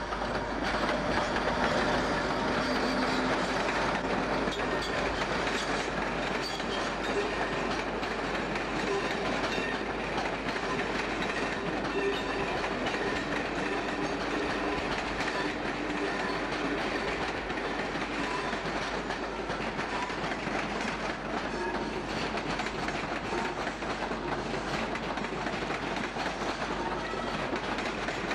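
An electric-locomotive-hauled passenger train moving slowly past over pointwork. The coach wheels clatter rhythmically over rail joints and crossings under a steady rolling rumble.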